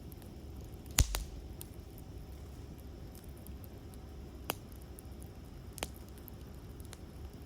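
Wood campfire burning with a low steady rumble and scattered crackles, with one loud pop about a second in and two smaller ones later.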